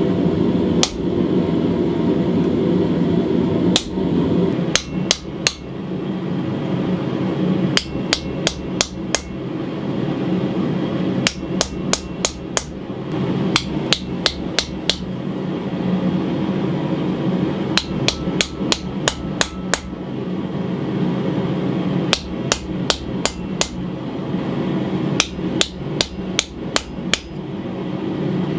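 Hammer blows on an anvil, forging the tapered ends of a 1/4-inch mild steel bar for a knife guard. The blows come in quick runs of several strikes every few seconds, over a steady low roar.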